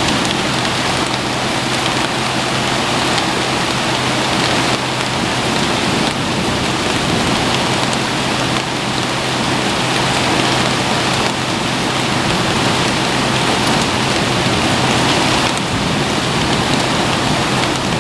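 Heavy rain pouring down steadily in a severe thunderstorm, an even, unbroken hiss of downpour.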